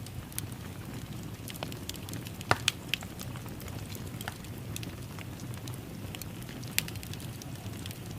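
Fireplace crackling: a steady low rumble of burning with scattered sharp pops and snaps, the loudest about two and a half seconds in.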